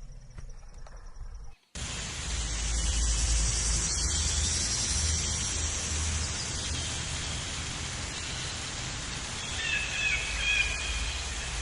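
Outdoor ambience: a steady hiss with a low rumble like wind on the microphone, following a sudden cut a little under two seconds in; a bird chirps briefly near the end.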